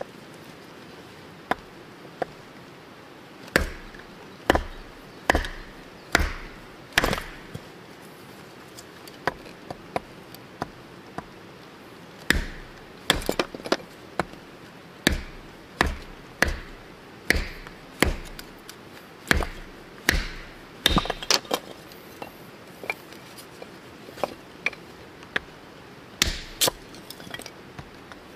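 Repeated chopping blows on wood, a sharp knock with a dull thump each, in irregular runs of roughly one to two a second with lighter taps between.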